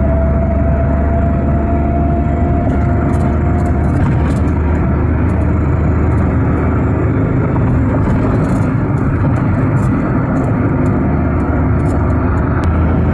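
Car driving along a road: steady engine and road noise, with a faint whine that rises slowly in pitch and fades out about four seconds in.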